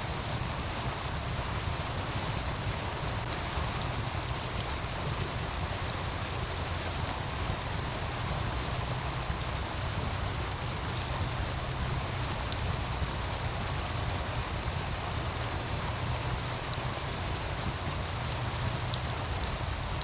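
Wood fire crackling with scattered sharp pops, one louder pop about halfway through, over the steady rush of a meltwater stream.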